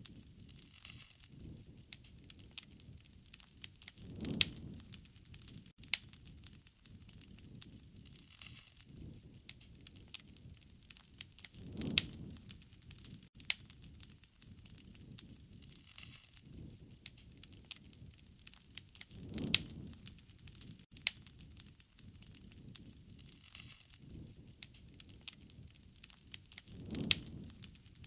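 Wood fire crackling with frequent sharp pops and snaps, and a low rushing swell about every seven to eight seconds.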